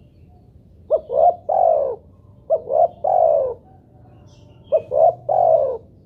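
Spotted dove cooing: three phrases, each two short notes followed by a longer drawn-out note, coming about one and a half to two seconds apart.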